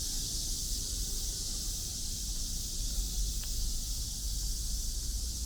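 Outdoor ambience: a steady high hiss over a low rumble, with a faint single click about three and a half seconds in.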